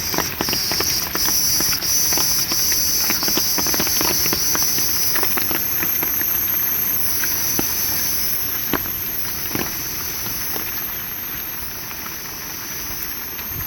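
Rain pattering, with many separate drops clicking, under a steady high-pitched insect chorus.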